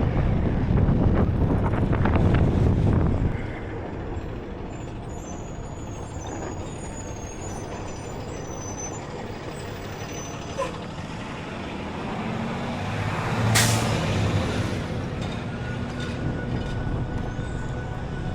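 City street traffic: a loud low rumble of a heavy vehicle for the first three seconds, then a quieter run, with a short sharp air-brake hiss from a truck or bus about two-thirds of the way through.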